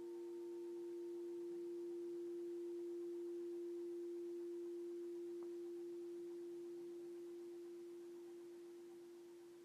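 Alchemy crystal singing bowl sounding a long, steady, pure tone with a fainter higher overtone, swelling slightly and then slowly fading toward the end.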